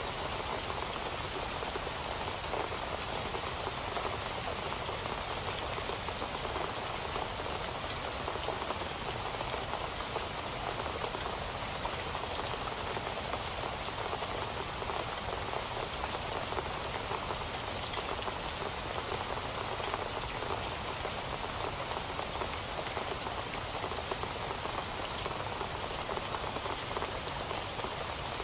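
Steady rain falling, an even hiss of drops pattering on a surface, with many small drop ticks and no change in intensity.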